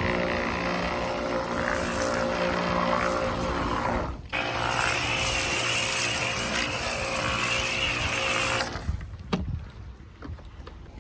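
A machine's motor running steadily with a noisy hiss over it. It breaks off briefly about four seconds in, then resumes and cuts off suddenly near the end.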